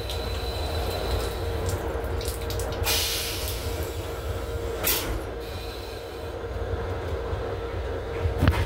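Metro-North M7 electric multiple-unit railcar running, heard from inside the car: a steady low rumble with a constant hum, a few sharp clicks and knocks, and a short hiss about three seconds in.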